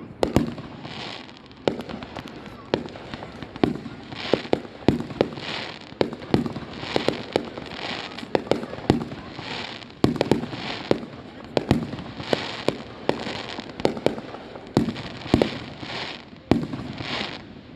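Fireworks display: a rapid, unbroken run of shell bursts going off, often several bangs a second, with noisy hiss between them.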